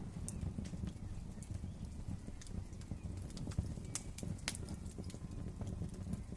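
Wood fire crackling in a fireplace: a steady low flutter of flames with scattered sharp pops and snaps, a few louder ones around the middle.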